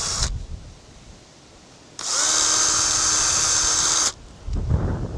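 Cordless power drill: a short run winding down in pitch just after the start, then a steady run of about two seconds that stops abruptly.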